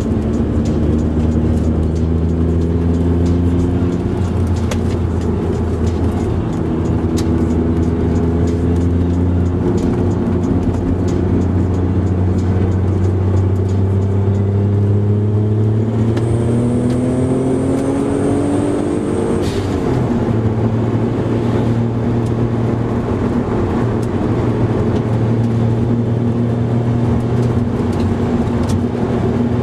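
Car engine and road noise heard from inside the cabin. The engine note climbs slowly, drops sharply about twenty seconds in as with a gear change, then holds steady.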